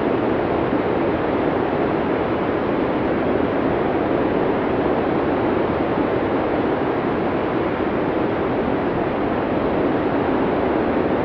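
Blizzard wind sound effect: a steady, dense rush of storm wind that keeps an even level throughout, without separate gusts.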